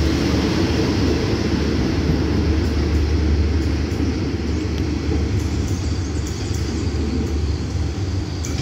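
Passenger train coaches rolling past on the rails and moving away: a steady low rumble that slowly fades.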